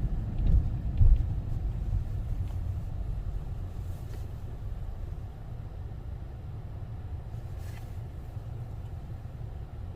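Low rumble of a car driving, heard from inside the cabin, with two short thumps in the first second; the rumble eases off over the next few seconds and then holds steady.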